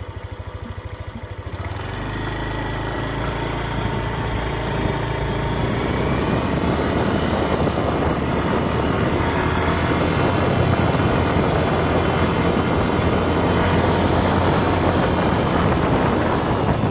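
A vehicle engine ticking over with an even low pulse, then picking up about two seconds in and running louder and steadier, as when it moves off and gets under way.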